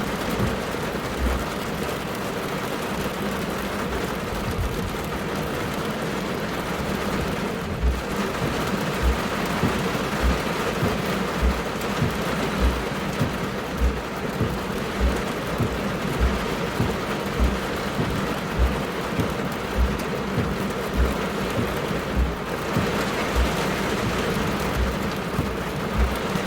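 Heavy thunderstorm rain falling hard, a dense steady hiss, with short low thumps repeating a little less than once a second.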